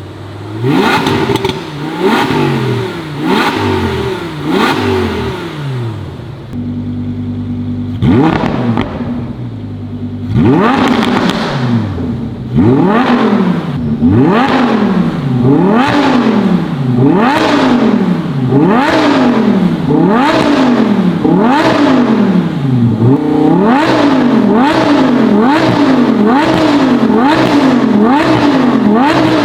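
Lamborghini Huracán EVO RWD's naturally aspirated V10 through a Capristo valved X-pipe exhaust, revved over and over: the pitch climbs and drops back roughly once a second. There is a short spell of steady idle about a quarter of the way in.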